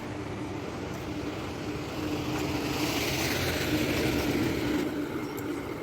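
Street traffic: a vehicle passing, its tyre and engine noise swelling to a peak around the middle and fading away over a steady traffic hum.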